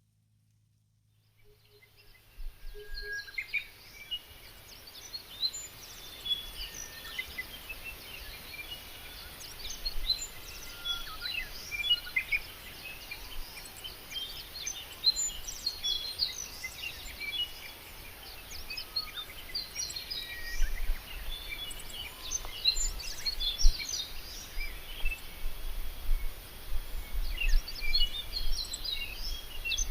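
Many birds chirping and calling over a steady background hiss; it starts after about two seconds of silence. A low rumble under it grows louder after about twenty seconds.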